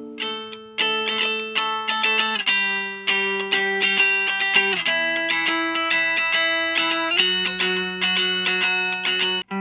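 Chapman ML3 Modern electric guitar played clean on the neck pickup through a Vox Lil Night Train 2-watt all-tube amp. Picked notes ring over held chords, which change about every two and a half seconds.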